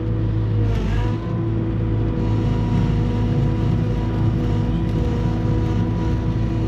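A vehicle engine running steadily. Its pitch dips briefly about a second in, then settles at a slightly different steady speed.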